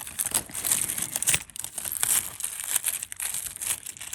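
Dense crinkling and small clicks as a tangled heap of costume jewelry and beaded necklaces is handled and pulled apart by hand.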